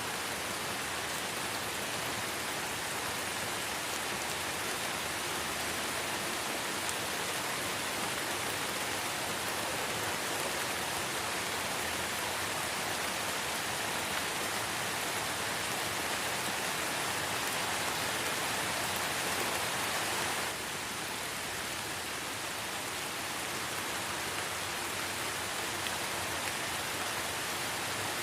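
Light rain falling, a steady even hiss with no single drops standing out. The level dips slightly and suddenly about twenty seconds in.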